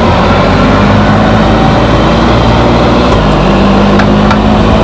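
Can-Am Spyder three-wheeled motorcycle running under way, a loud steady engine drone mixed with road and wind noise; its pitch steps up slightly about three seconds in.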